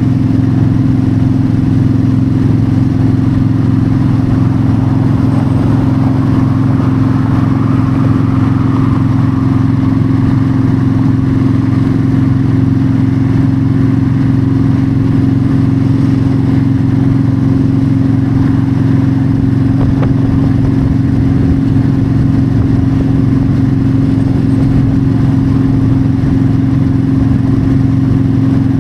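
Yamaha V-Star 1300's V-twin engine running steadily at highway cruising speed, with wind rushing past.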